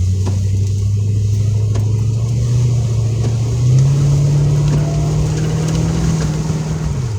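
Car engine and road noise heard from inside the cabin while driving; the engine note steps up in pitch about four seconds in and drops back near the end.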